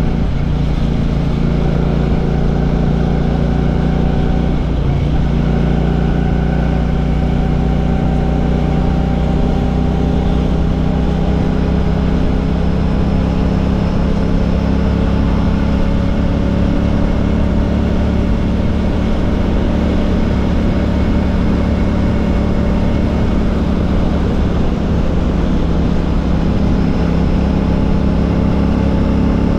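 Royal Enfield Classic 650's 648 cc parallel-twin engine running through an aftermarket Ngage exhaust while the bike is ridden, its pitch climbing gradually as it gathers speed.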